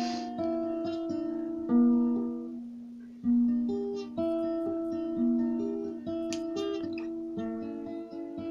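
Guitar playing a tune. Chords are plucked about once a second and left to ring, with quicker plucked notes near the end.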